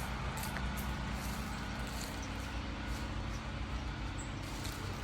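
Portable generator engine running with a steady low hum, with a few faint scattered ticks over it.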